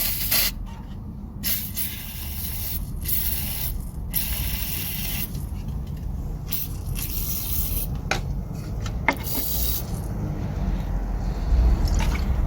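Aerosol cleaner spray can hissing in repeated bursts of about a second each, washing dirt off a diesel engine part, with a few sharp clicks near the end.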